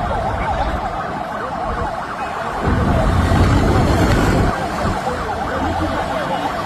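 Vehicle siren on a fast yelp, sweeping down and up in pitch several times a second, over a noisy background. The background swells louder for about two seconds in the middle.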